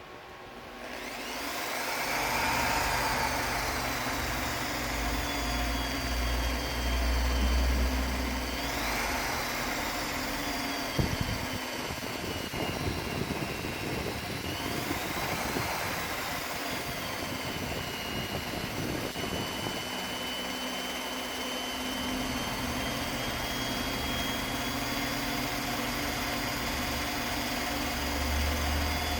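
A motor running steadily with a high whine that rises and falls in pitch a few times, and a single sharp click about eleven seconds in.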